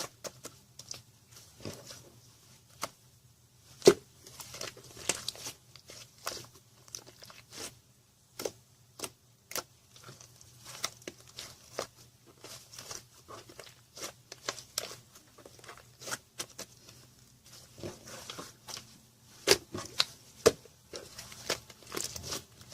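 Slime topped with clay and small ice-cream charm pieces being squished and stretched by hand, giving irregular crackling, popping and tearing sounds at an uneven pace, with a few louder pops, over a faint low hum.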